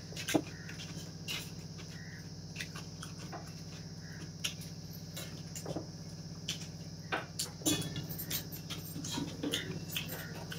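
A person eating rice by hand: irregular wet smacks and clicks of chewing. A steady low hum runs underneath.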